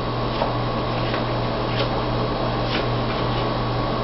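Steady electrical hum and hiss of the recording, with four or five faint soft clicks about a second apart as trading cards are handled and set down on a table.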